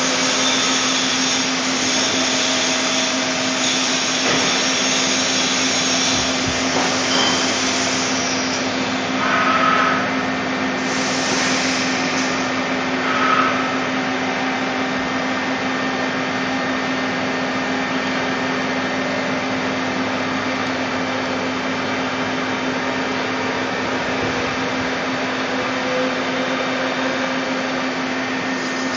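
Doosan Puma 350 CNC lathe running: a steady motor hum under a constant hiss, with two brief louder swells about ten and thirteen seconds in.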